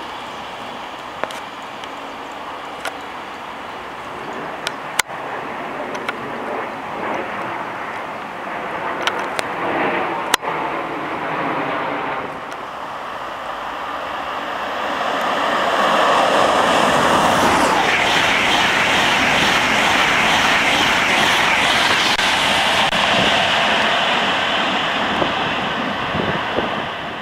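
Express passenger train running through the station at speed. A moderate rumble with scattered sharp clicks gives way about halfway to a loud rush of wheel and air noise that builds, holds for about ten seconds as the train passes, and fades near the end.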